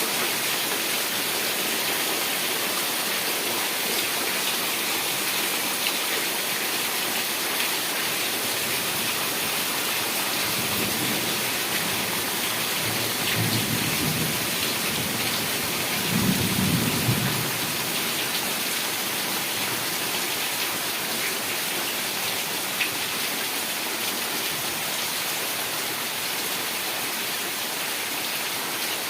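Heavy rain falling steadily, with a low rumble of thunder rolling in about a third of the way through, loudest just past the middle, then dying away.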